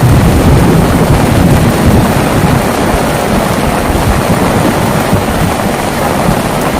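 Heavy rain falling steadily, with a low rumble of thunder that eases off over the first couple of seconds.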